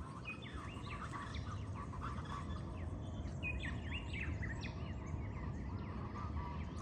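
Rufous-vented chachalacas (guacharacas) calling, many short bird calls overlapping throughout, over a steady low background hum.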